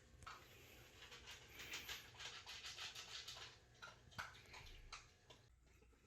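A pet dog moving about close by: faint scattered clicks and short scratchy rustles.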